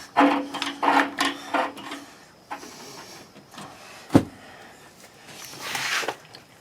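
Hand work on an electric water heater's replacement parts: scraping and rubbing of metal parts in the first two seconds, one sharp click a little after four seconds in, and a rasping noise near the end.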